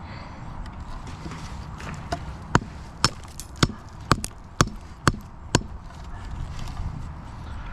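A run of about eight sharp knocks, roughly two a second, starting about two and a half seconds in, over a low steady rumble.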